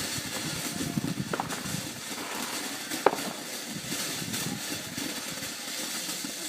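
Ground fountain firework spraying coloured sparks, giving a steady hissing rush with a couple of brief sharp pops.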